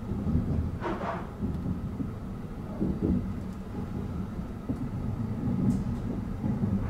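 Kintetsu 80000 series 'Hinotori' electric train running, heard inside the driver's cab as a steady low rumble of wheels on rail, with a brief hiss about a second in and again near the end.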